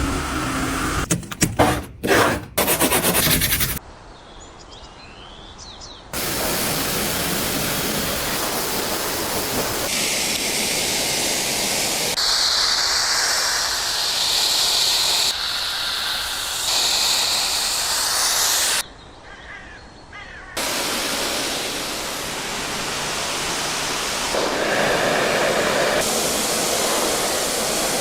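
Car-detailing work noise in quick cuts: several sharp clicks in the first few seconds, then steady hissing, rushing noise that changes abruptly every few seconds, with two short quieter stretches.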